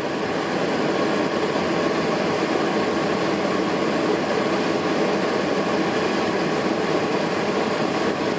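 Newly installed rooftop camper air conditioner just switched to cool, its blower building up over about the first second and then running steadily with a rushing airflow and a faint steady tone.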